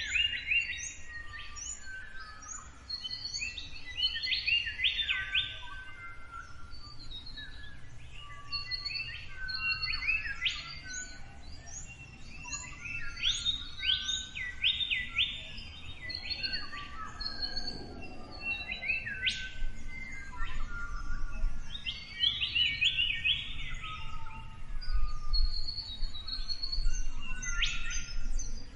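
Several birds singing and calling at once, a dense chorus of overlapping chirps and short trills, over a low steady rumble.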